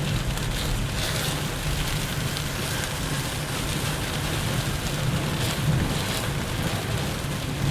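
Heavy rain on a moving car, heard from inside the cabin: a steady hiss of rain and road spray over the low drone of the engine and tyres.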